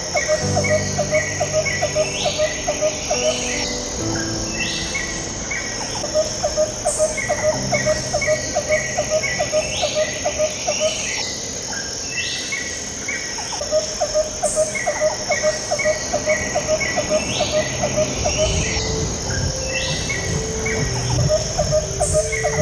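Ambient background music: soft held low notes under a repeating loop of cricket-like chirping and bird-like calls.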